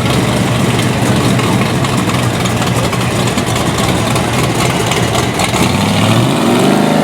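A loud car engine running steadily, rising in pitch over the last second or two as it revs up.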